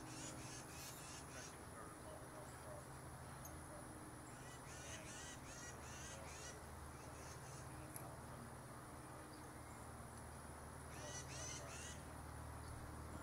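Faint bird calls: three short runs of quick, repeated high notes, a few seconds apart, over a steady low hum.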